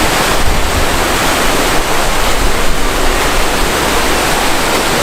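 Loud, steady rushing noise with a rumble underneath.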